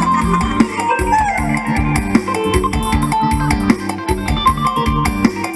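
Mor lam sing band music: an instrumental passage with a steady dance beat, a stepping bass line and a plucked-string lead with sliding notes.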